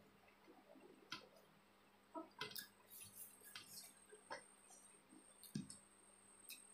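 Faint, scattered clicks and wet smacks of chewing and mouth sounds while eating.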